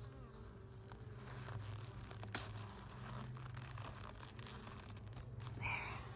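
Rustling and scraping from hands working at a beehive's entrance disc to turn it fully open, with one sharp click a little over two seconds in and a short scrape near the end, over a steady low hum.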